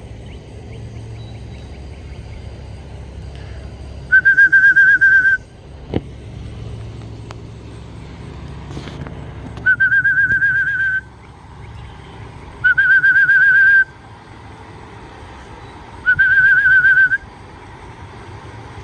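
A trilling whistle blown in four short blasts, each with a fast warble at one steady pitch, used to call racing pigeons down to the loft.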